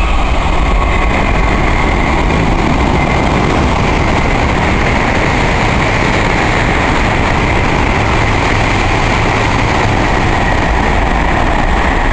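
Shinkansen train passing through the station at speed: a loud, steady rush of wheels and air with a high whine over it.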